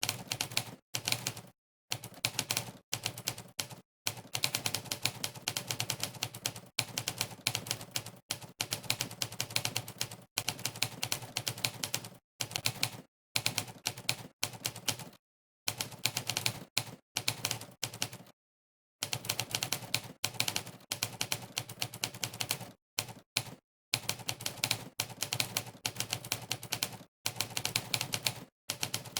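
Typewriter keystroke sound effect from a typing-test website, one sampled clack per key pressed: fast, uneven runs of clacks broken by short dead-silent pauses, the longest about halfway through.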